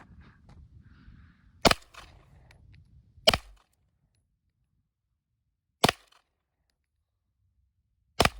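Four single gunshots fired one at a time at a target, sharp cracks spaced about one and a half to two and a half seconds apart.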